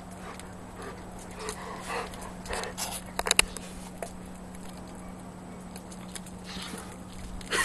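A house cat chewing a freshly caught field mouse: scattered short crunching and clicking noises, with a quick cluster of sharp clicks a little past the middle, over a steady low hum.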